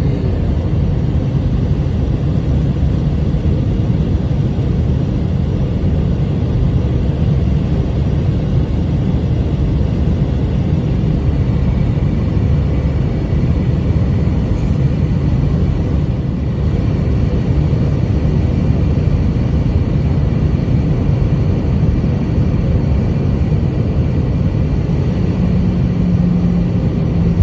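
Airliner cabin noise: a steady, loud rumble of jet engines and rushing air.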